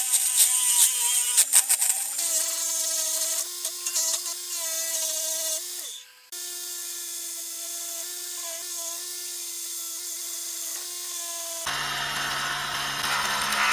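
Small electric power tool motor running with a steady high whine. It cuts out briefly about six seconds in and starts again. Near the end a rougher, noisier machine sound takes over.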